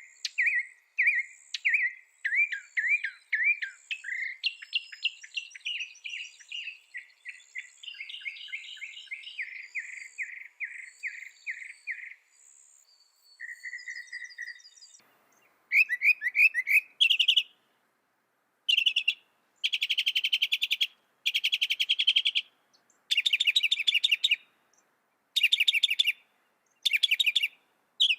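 Mockingbird singing: a run of varied phrases, each note type repeated several times before switching to another. About halfway through, the song turns to short loud bursts of rapid notes separated by brief silences.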